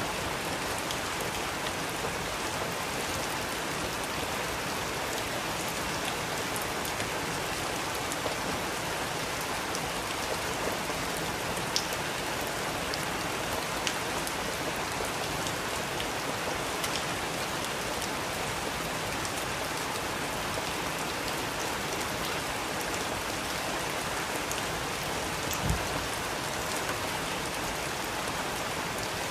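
Steady rain falling, with the odd louder drop ticking now and then and one heavier knock near the end.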